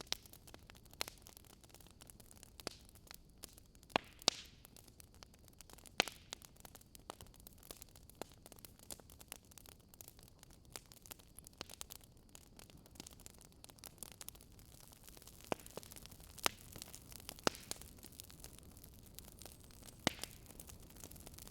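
Wood fire crackling, with irregular sharp pops and snaps over a faint, steady low rush of storm wind.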